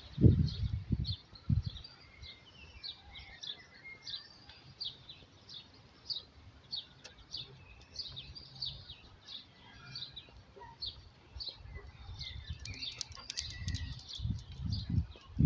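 Small birds chirping, short high chirps repeated about twice a second, with a few low thumps at the start and again near the end.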